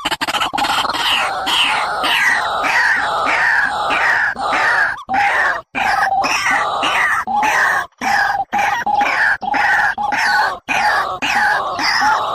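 Recorded bird calls: one harsh call repeated quickly, about two to three times a second, each with a short falling sweep.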